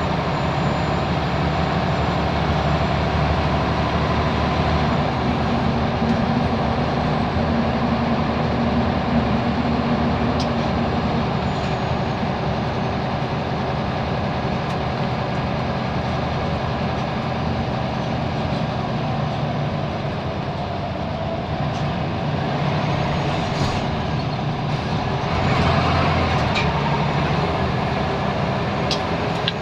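Scania L94UB Wright Solar single-deck bus's diesel engine running steadily while under way, heard on board. Near the end a louder rushing hiss rises over it.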